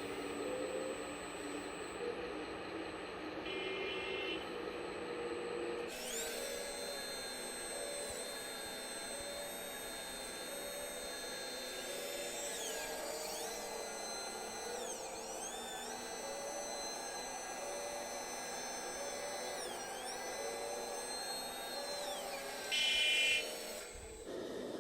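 Whine of the small electric drive motors and gearboxes of radio-controlled scale trucks and tractors, its pitch dipping and recovering a few times as they slow and speed up. Short electronic beeps sound twice, the second near the end and louder.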